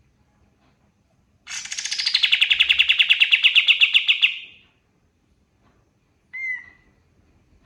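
Kapas tembak singing a fast trill of about nine repeated notes a second for about three seconds, starting high and sliding down in pitch, then a single short call near the end.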